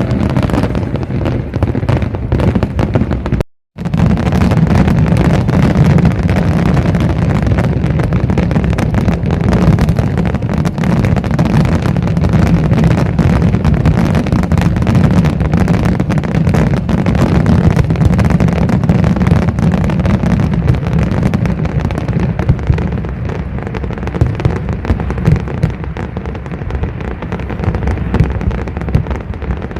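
Fireworks display at full barrage: aerial shells bursting in rapid, overlapping succession, heard as a continuous booming rumble with crackles on top. The sound drops out briefly at about three and a half seconds, then the barrage goes on.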